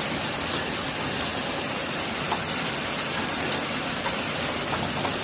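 Heavy rain pouring down in a severe storm: a dense, steady hiss with a few sharp ticks of hits close by.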